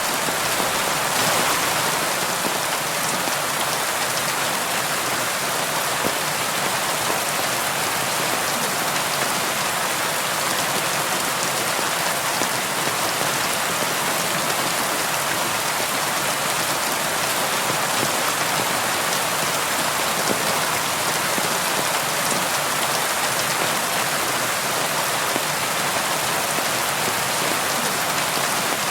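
Steady rain falling on window glass: an even hiss that does not let up.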